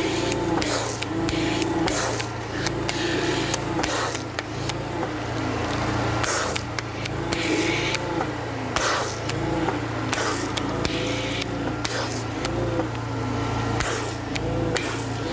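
Pressure washer running with a steady hum while a foam cannon sprays snow foam in repeated short hissing bursts.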